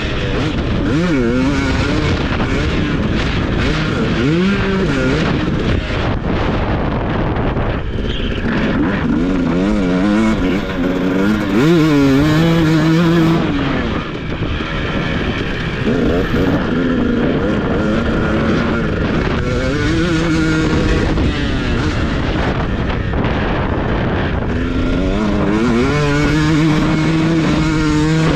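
TC250 motocross bike engine revving hard around a track, its pitch repeatedly climbing and dropping as the throttle opens and shuts through gear changes, over a steady rush of noise.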